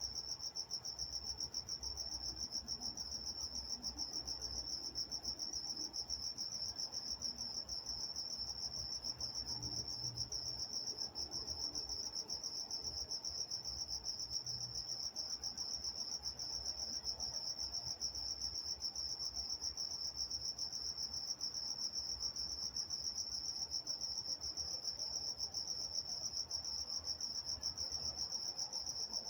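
Night chorus of crickets chirping steadily, a continuous high-pitched pulsing trill, with a faint low rumble underneath.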